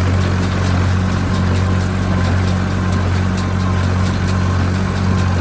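Tractor engine running steadily while driving a Massey Ferguson 20-8 small square baler through a heavy windrow, a constant low hum with light repeated ticking from the baler's working parts.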